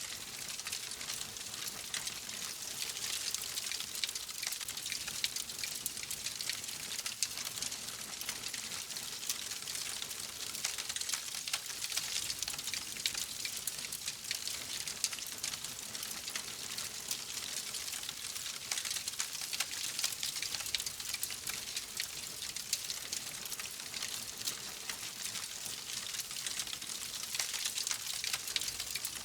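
Wood fire crackling steadily: a dense stream of small pops and snaps over a soft hiss.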